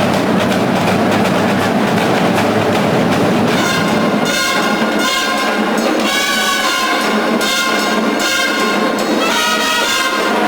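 Marching band playing: the drum line carries the music for the first few seconds, then the brass section (trumpets and trombones) comes in with held chords about three and a half seconds in.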